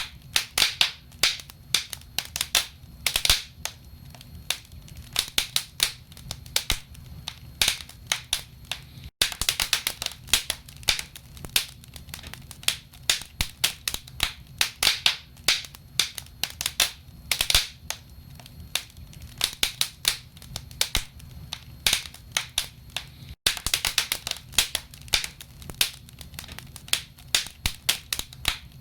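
Wood fire burning in a fireplace, the logs crackling with frequent sharp, irregular pops and snaps over a low steady rumble.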